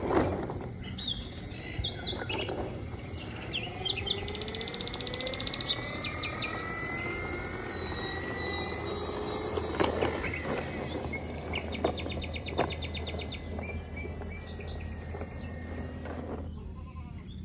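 Birds chirping and trilling over steady outdoor background noise, with a motor's pitch rising slowly through the middle.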